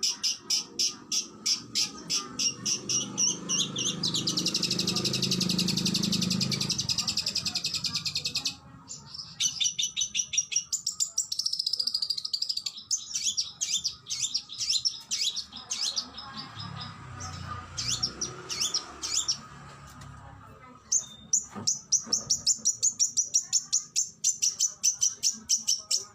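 Oriental magpie-robin (kacer) singing rapid-fire 'shooting' phrases of sharp, high repeated notes, about five a second. A dense, buzzing trill comes about four to six seconds in, then broken phrases with short pauses, and a fast run of repeated notes near the end.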